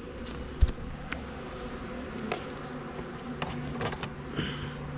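Honey bees buzzing, with a steadier buzz setting in about three seconds in, and a few light clicks and a knock from handling.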